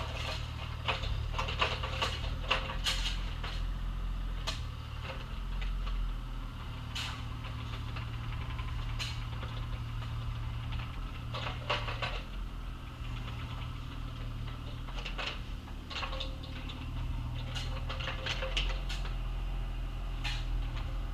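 Excavator diesel engine running steadily while digging, with intermittent clanks and scrapes of the bucket working in dirt and gravel.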